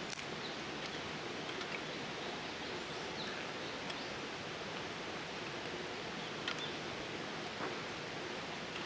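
Steady outdoor hiss with a few faint, scattered clicks and rustles.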